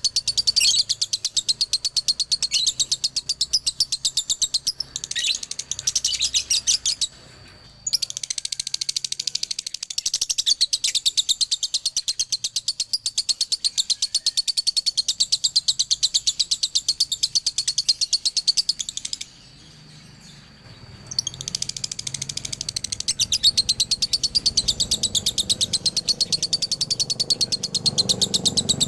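Male lovebird's ngekek song: long runs of rapid, high chattering notes in the long 'dobelan' style. It breaks off briefly about seven seconds in and again for a couple of seconds just before the middle of the second half, then resumes.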